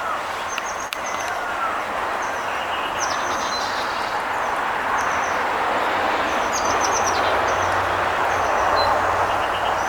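Vehicle noise swelling steadily as traffic approaches, with a low hum joining in the second half. Over it a small bird gives repeated short, high chirps about once a second.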